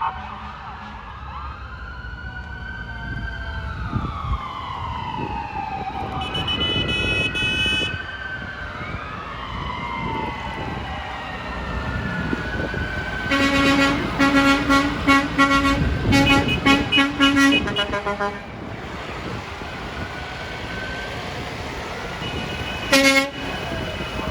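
Several emergency-vehicle sirens wailing at once, their pitches rising and falling across one another over a low rumble. A horn sounds for about two seconds around six seconds in, a deeper horn blasts over and over for about four seconds in the middle, and it gives one short blast near the end.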